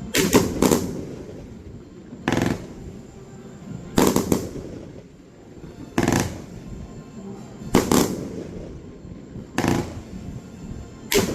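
Fireworks going off one after another: a sharp bang roughly every two seconds, some in quick pairs, each trailing off in a low rumble.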